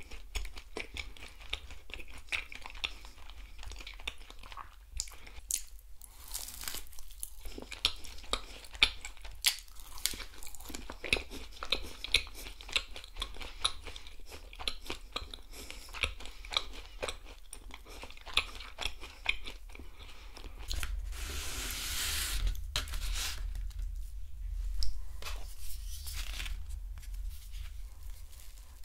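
Close-miked chewing of a chopped-nut-coated caramel eclair, with many sharp crunches of the nuts between the teeth. Near the end a table knife starts cutting into a glazed eclair.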